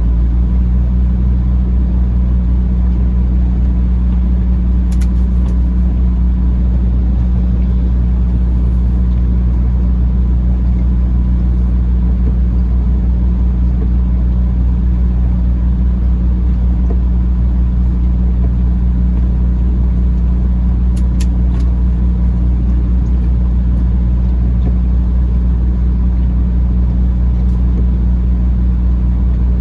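Peterbilt 579 semi-truck's diesel engine running steadily at low revs, a deep even hum with no revving. A few faint clicks come about five seconds in and again around twenty-one seconds.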